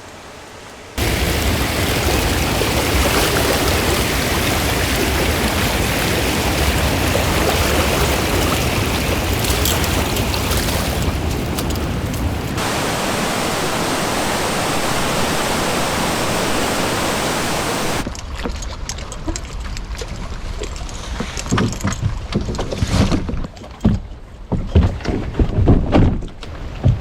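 A loud, steady rush of river water that cuts in suddenly and stops abruptly about eighteen seconds in. Then quieter canoe sounds: paddle splashes and water lapping, with irregular knocks.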